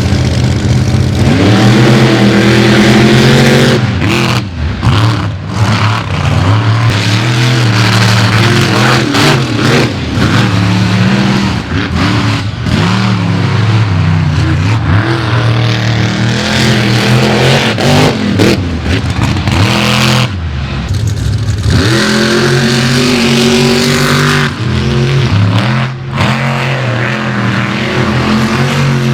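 Monster truck engines revving hard under full throttle. Their pitch climbs and falls, with brief throttle lifts a few times.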